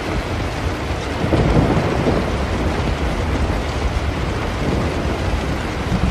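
Steady rain with a low rumble of thunder that swells about a second in and fades back into the rain.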